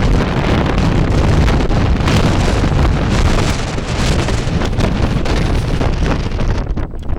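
Strong sandstorm wind buffeting the microphone: a loud, rumbling roar of wind noise that eases for a moment near the end.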